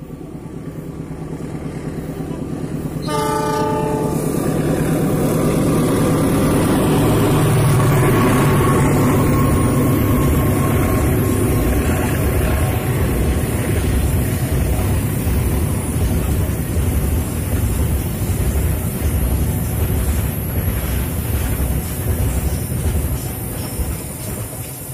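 Diesel freight locomotive hauling a cement train approaching and passing, with one short horn blast about three seconds in. The engine's rumble is loudest as the locomotive goes by, then the tarp-covered wagons roll past with a steady rattle of wheels on the rails that fades near the end.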